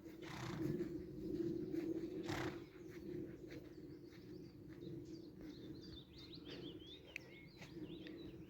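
Small songbirds chirping and twittering, busiest in the second half, over a low steady hum. Two brief noisy swishes come in the first couple of seconds.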